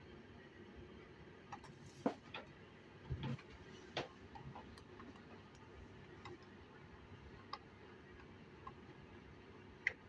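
Bosch washing machine clicking about a dozen times at uneven intervals, short sharp clicks over a low steady hum, while it is run in its service test mode.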